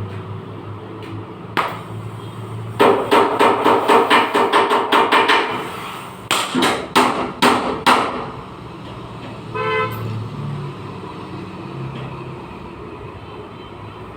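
Hammer blows on a car's sheet-metal body panel while beating out accident dents: a fast run of ringing metallic strikes, about four a second, then a few more after a short pause. A short horn-like toot follows near the end.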